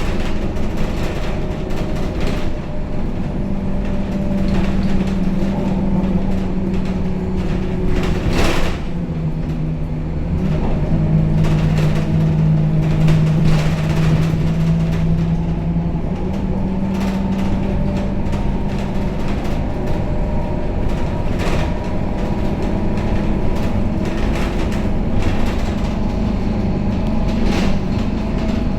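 Scania K270UB city bus running, heard from inside the cabin, its five-cylinder diesel giving a steady drone. The engine note drops about nine seconds in and rises again about seven seconds later. A single sharp knock comes just before the drop.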